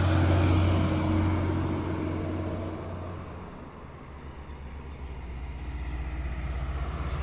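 Heavy diesel truck passing close by, its low engine drone fading away over about three seconds. Another heavy truck approaches, growing louder toward the end.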